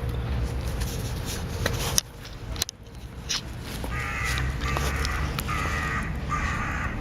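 A crow cawing four times in quick succession over a low rumble on the microphone.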